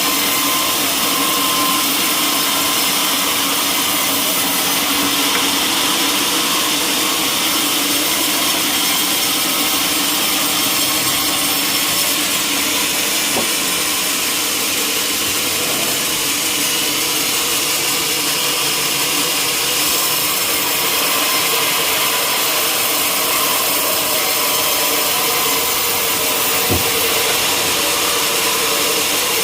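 Sawmill machinery running steadily, a saw and its motor working through timber without letting up. There is a single brief knock near the end.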